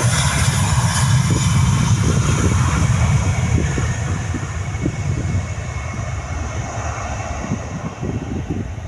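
Airbus A320 jet engines and a heavy low rumble, the hiss and rumble fading gradually, with scattered knocks and rattles.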